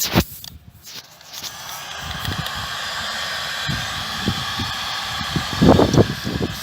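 Heat gun switched on and blowing steadily, warming a glued PVC pipe joint to soften the cement, with a faint motor whine under the rush of air. A few handling knocks near the end.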